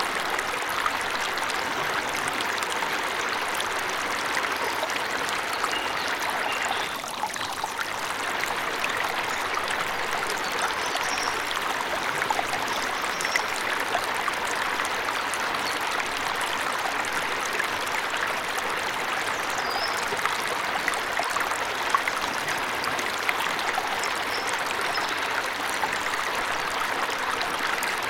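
Steady rushing water of a forest waterfall, with a few faint, short high bird chirps scattered through.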